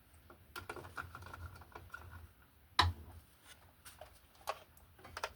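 Irregular light clicks and knocks of small hardware being handled, with one sharper knock just under three seconds in.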